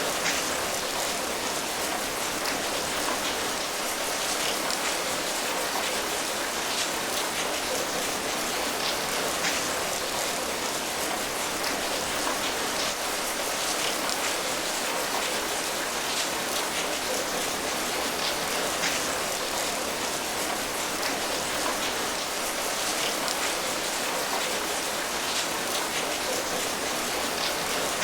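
Steady rain pattering on a surface, an even hiss of many small drop impacts.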